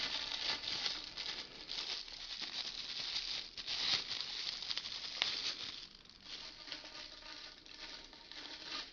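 Plastic packaging rustling and crinkling as new vacuum cleaner parts are handled and unwrapped, with a couple of sharp clicks around the middle; the rustling is quieter in the last few seconds.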